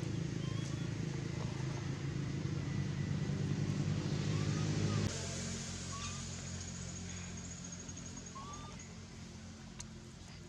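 A motor engine running steadily, dropping off abruptly about five seconds in, after which a fainter hum fades away; a few short chirps sound over it.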